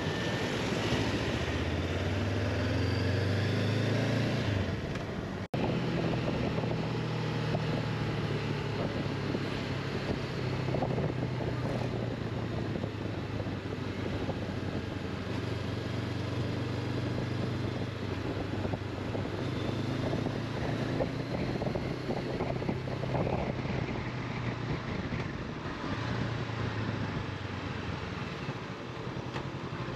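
Honda CB500X parallel-twin engine running under way, its pitch climbing over the first few seconds and then rising and falling with speed, over steady road and wind noise. A sudden break about five seconds in.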